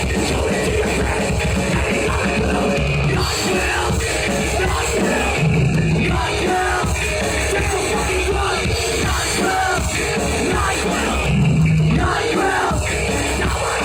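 Blackened punk band playing loud live, the full band going with a shouted vocal over it.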